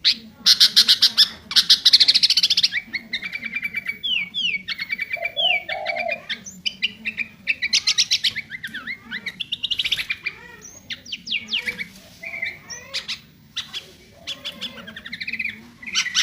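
Sooty-headed bulbul (kutilang) singing loudly in a varied, mimicry-filled song: fast rattling trills alternating with short slurred whistled notes, with brief pauses between phrases.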